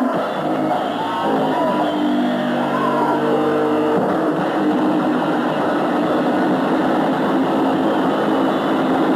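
Rock band playing live: held chords over the first four seconds, then the full band comes in as a dense, loud wall of sound.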